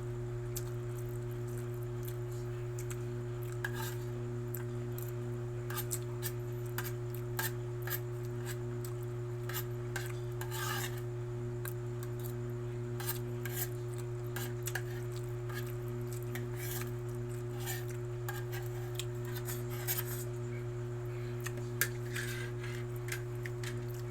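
Spoon or fork clinking and scraping on a plate of pancit noodles while eating, in short irregular clicks, over a steady low hum.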